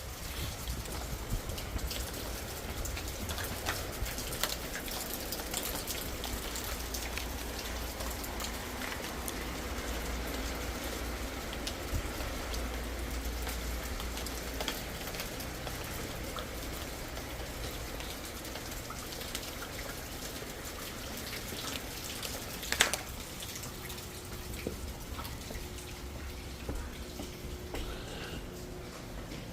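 Rain pattering steadily with many small drop ticks over a low rumble, and a single sharp knock about 23 seconds in.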